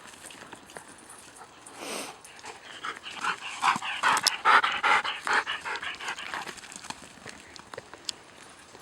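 Dog panting hard and fast, loudest in the middle stretch, with a few light clicks around it.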